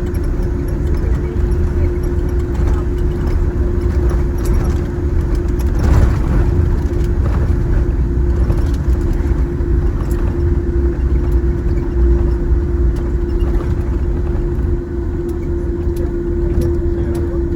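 Boeing 787-10 cabin noise while taxiing after landing: a steady low rumble of engines at taxi power and wheels on the taxiway, with a constant humming tone over it. It gets a little quieter near the end.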